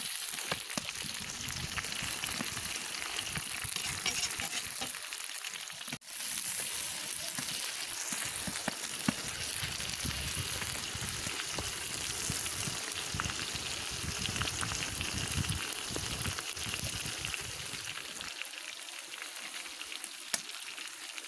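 Beef ribs and onions sizzling steadily in hot oil in a cast-iron kazan, stirred and scraped with a metal skimmer: the meat-browning stage of plov. The sound drops out briefly about six seconds in.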